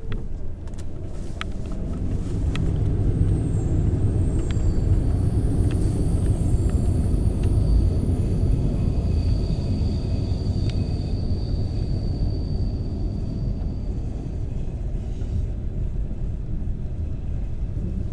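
Train running on the rails with a steady low rumble. There are a few sharp clicks in the first seconds and a thin high squeal from about three seconds in until past the middle.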